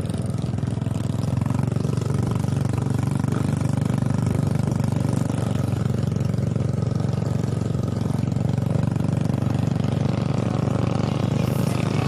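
A vehicle engine running steadily at an even speed, a continuous low sound with no change in pitch.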